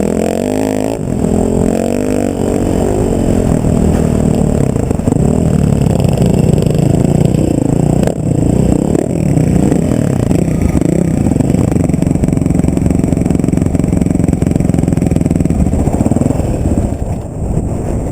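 Off-road vehicle engine running under way, its pitch rising and falling with the throttle, then easing off near the end.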